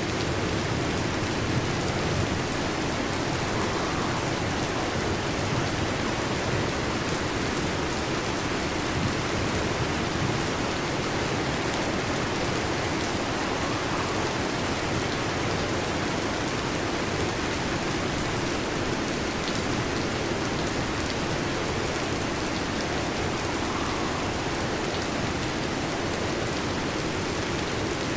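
Heavy rain drumming steadily on a metal roof, a dense, even hiss of drops with no let-up.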